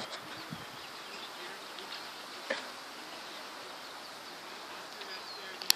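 Quiet outdoor ambience: a steady soft hiss with faint, short high chirps scattered through it, a small click about halfway and a sharper click near the end.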